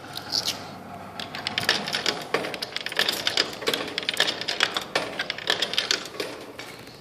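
Claw machine clicking rapidly and irregularly, many sharp clicks a second as it is played.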